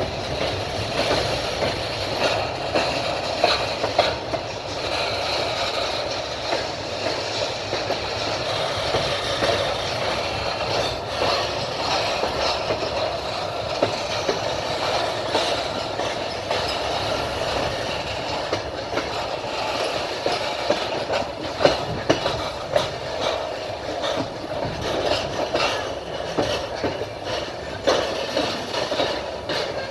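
Wheels of a moving passenger train clattering over the rails, heard from inside the carriage: a steady running rumble with scattered sharp knocks from the rail joints.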